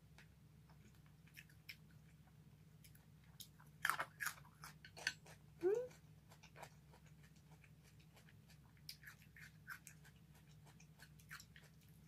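Close-miked chewing of a mouthful of grilled chicken and sautéed cabbage: soft wet mouth clicks and smacks, louder for a moment about four to five seconds in, with a short rising hum from the eater near six seconds.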